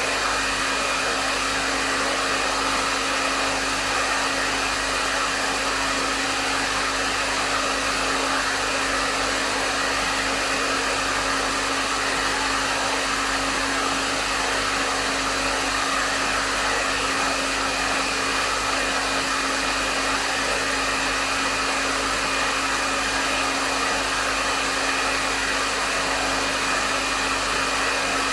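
Hair dryer running steadily at medium speed: an even rush of air with a constant motor hum underneath and a faint high whine, unchanging throughout.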